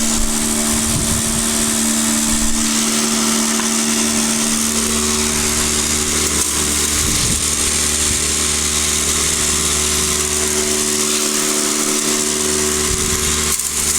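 Electric drywasher (Tornado F2) running steadily: a motor hum made of several steady tones over a high hiss. A deeper hum joins about five seconds in and dips briefly near the end.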